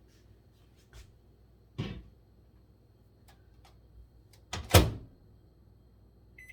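Microwave oven being loaded and its door shut: a light knock and a thump, then the door closing with a loud clack about four and a half seconds in. A short keypad beep sounds right at the end.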